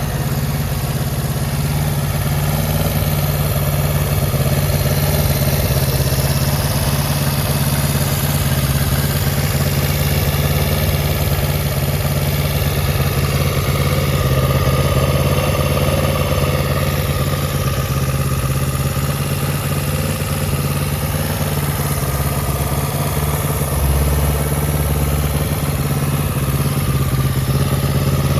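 Kawasaki Z250FT motorcycle engine idling steadily through an aftermarket muffler.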